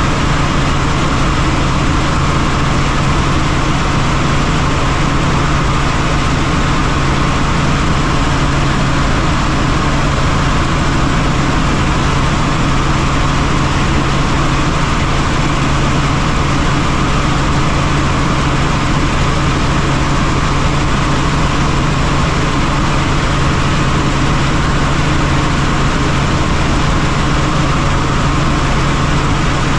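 Helicopter in flight: loud, steady engine and rotor noise with a constant low hum.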